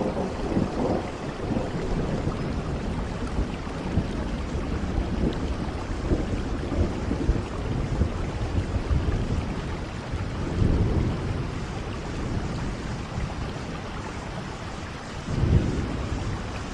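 Steady rain falling in a thunderstorm, with low rumbles of thunder swelling up near the start, about ten seconds in, and again near the end.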